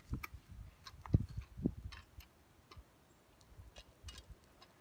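Handling noise from a phone held in the hand: scattered light clicks and ticks, with two dull low thumps a little over a second in.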